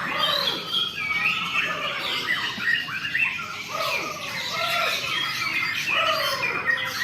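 Several caged white-rumped shamas (murai) singing at once in a song contest: many overlapping whistled phrases and harsh squawking notes, rising and falling in pitch without pause.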